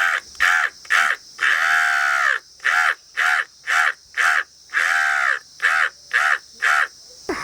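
A man imitating a crow's cawing with his voice: a run of about fifteen hoarse caws, mostly short and about half a second apart, with two longer drawn-out caws among them.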